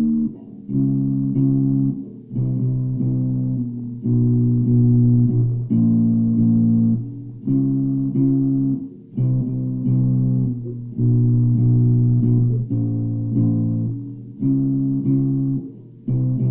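Ibanez Jumpstart four-string electric bass playing a riff of plucked notes in short phrases, with brief gaps between them. Recorded through a phone's microphone, so it sounds thin, with little of the deepest bass.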